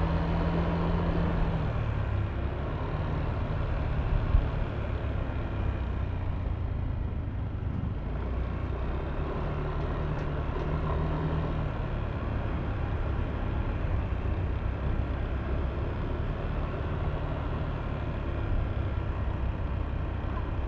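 Yamaha Aerox V3 scooter's 155 cc single-cylinder engine running while riding in traffic, its note holding mostly steady with a few shifts in pitch as the throttle changes. A single sharp knock comes about four seconds in.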